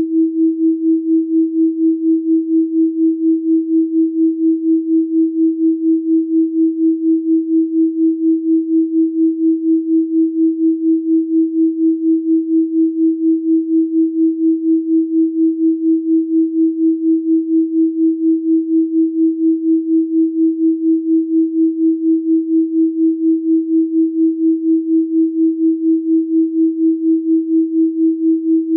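A steady pure sine tone at 324 Hz, a single unchanging pitch, pulsing evenly in loudness several times a second.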